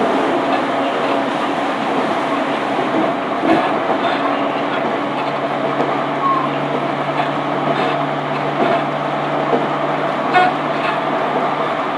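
Running sound inside an E231 series EMU motor car (equipment-updated MoHa E231-1052), heard through the floor: the steady roll of wheels on rail under several held tones from the running gear and traction equipment. A low hum joins about five seconds in, and a few sharp clicks come over the track.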